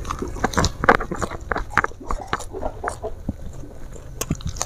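Close-up chewing of a hand-fed mouthful of rice, with many quick, irregular wet lip smacks and mouth clicks.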